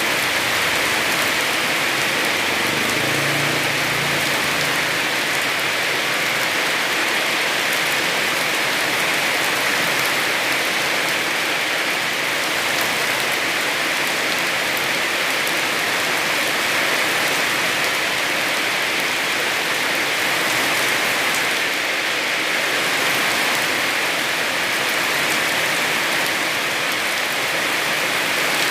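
Heavy rain falling steadily, a dense even hiss of drops on surfaces with fine scattered patters.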